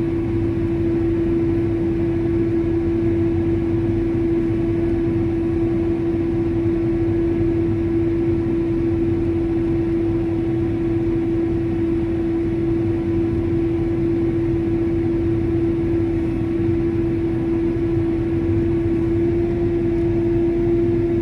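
Crop sprayer running steadily at field work, a constant engine drone with one steady high hum over a low rumble.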